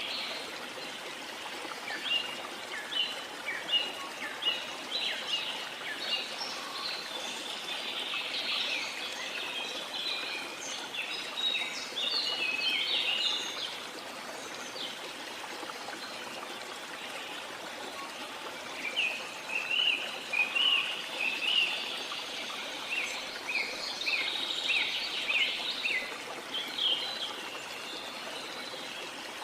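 Small birds chirping and twittering in quick busy bouts, with a lull in the middle, over a steady wash of water.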